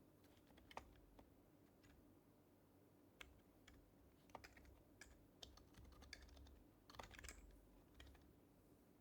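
Soft typing on an HHKB Professional HYBRID Type-S keyboard, whose Topre capacitive switches are silenced: quiet keystrokes in irregular short runs, busiest in the second half.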